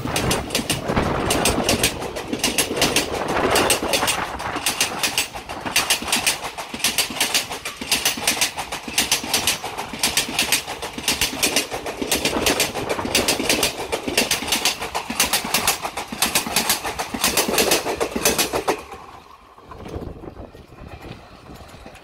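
Indian Railways passenger coaches passing at speed close by, their wheels clattering over the rail joints in a fast repeating clickety-clack over steady rolling rumble. The sound drops away sharply near the end.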